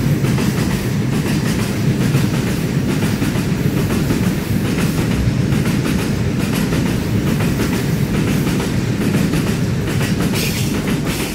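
Freight train of covered cement hopper wagons rolling past: a steady rumble of wagons and wheels, with the wheels clicking over the rail joints.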